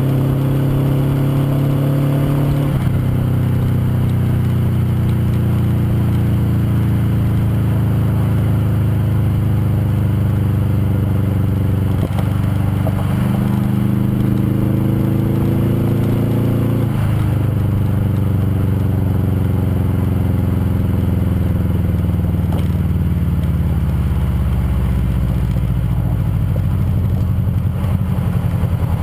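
2002 Subaru Outback's 2.5-litre EJ25D flat-four running through unequal-length headers and an HKS Hi-Power titanium axle-back exhaust, pulling under load. The engine note drops suddenly twice, about three seconds in and about two-thirds of the way through, as the automatic gearbox shifts up. The note rises before the second shift and then falls slowly as the car eases off.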